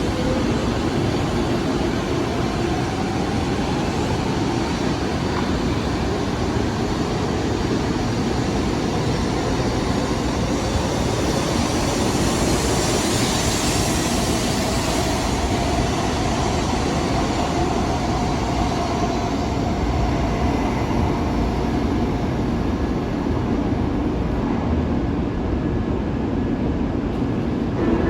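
Steady rumble of a train at a station platform, with a faint tone slowly rising and falling over it.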